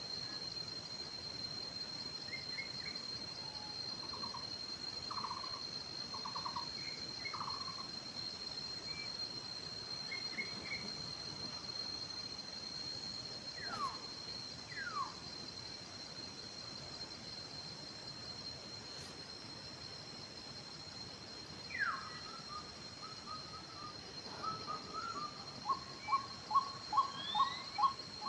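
Wild forest birds calling over a steady, high-pitched insect drone. Scattered short trilled notes and two falling whistles come first, then near the end a bird gives a run of about seven loud, evenly repeated notes.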